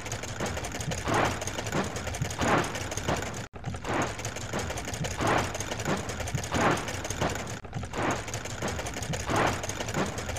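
Cartoon car-wash rotating brush running: a steady mechanical whirr with a scrubbing swish repeating about every two-thirds of a second. It drops out for an instant twice.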